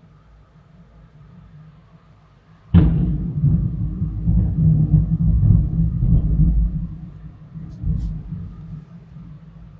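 Thunderclap: a sudden sharp crack about three seconds in, followed by a loud low rumble that dies away over the next few seconds.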